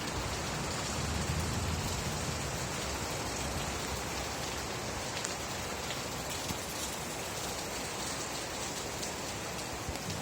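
Steady rain falling, an even hiss with a few separate drop ticks.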